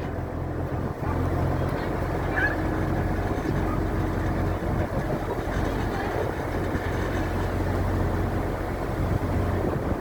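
A tour boat's engine running steadily under way, a low even drone with the rush of wind and water over it.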